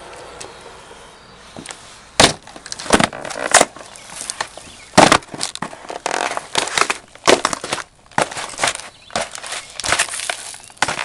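Danner Rainforest boots stomping on a stack of cardboard pizza boxes: repeated sharp stomps with cardboard crunching and crackling, starting about two seconds in, the loudest stomp about five seconds in.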